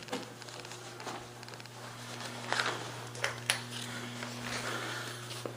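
Quiet room tone with a steady low hum and a few soft knocks, about two and a half and three and a half seconds in.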